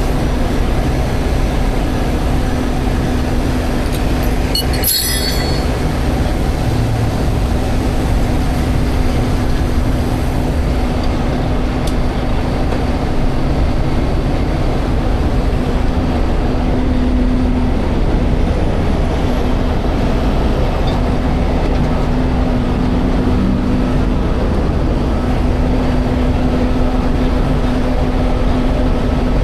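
Heavy wrecker's diesel engine running with its hydraulics working as the rotator boom is swung over and the lift begins: a steady heavy rumble with a constant whine. A brief metallic clatter about five seconds in.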